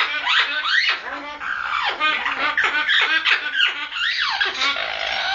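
Red-lored Amazon parrot giving its mating call: a fast, unbroken string of short, loud squawks that glide in pitch, several a second.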